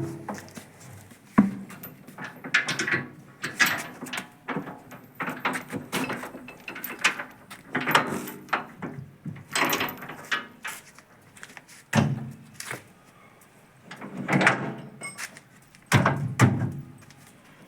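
Irregular thuds and knocks as sacks of manure are handled and loaded, with short bursts of voices in between.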